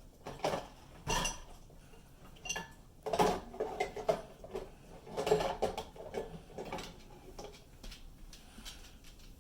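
Dishes and cutlery in a dishwasher rack clattering and clinking in irregular bursts as a dog gets at them.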